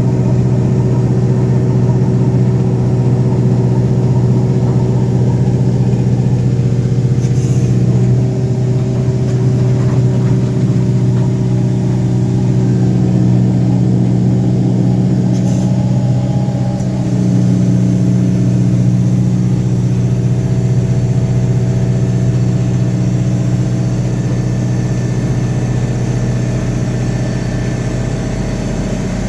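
Revathi C650D drill rig running steadily: an even, loud engine drone with small shifts in pitch about a quarter of the way in and again just past halfway, and two brief faint hisses.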